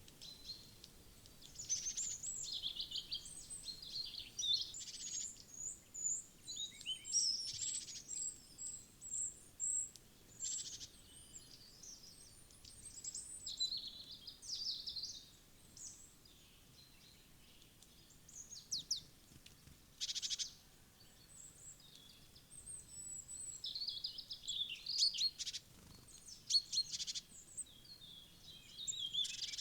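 Wild songbirds calling and chirping, many short high-pitched calls coming in quick runs with brief pauses between them.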